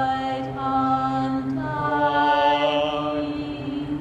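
Voices holding long sung notes in a chant-like drone, a low steady note underneath and higher voices that shift pitch about halfway through.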